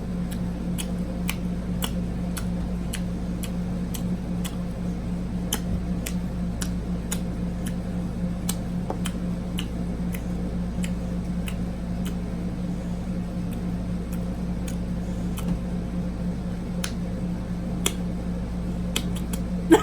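Close-miked chewing of boiled chicken: many small sharp mouth clicks and smacks over a steady low hum, which is the room's air conditioner.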